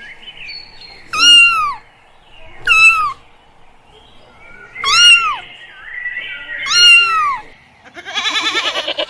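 A domestic cat meowing four times, each meow rising and falling in pitch, about a second and a half apart. Near the end a goat starts a fast-wavering bleat.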